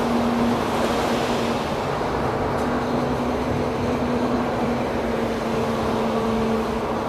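LM-99K tram running along the track: a steady rumble of wheels on rails with a steady low hum throughout.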